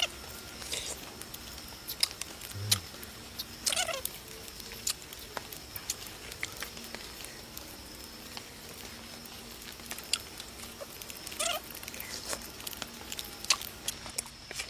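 A person eating instant noodles: scattered small clicks and taps of eating, with a few longer slurps, about 4 seconds in and again near 11 seconds. A faint steady high-pitched tone runs underneath.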